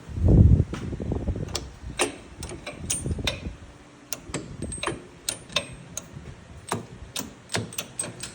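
A heavy low thump, then a run of irregular sharp clicks and knocks over a low rumble.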